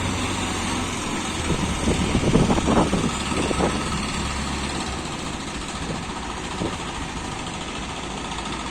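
JCB machine's diesel engine running steadily, with uneven knocks a couple of seconds in; the low drone eases off about halfway through.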